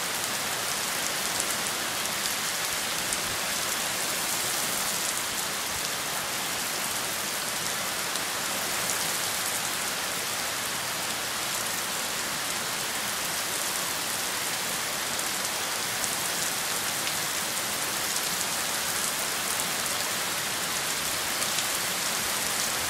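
Heavy rain falling onto a wet asphalt driveway and lawn: a steady, dense hiss flecked with many small ticks of drops striking the surface.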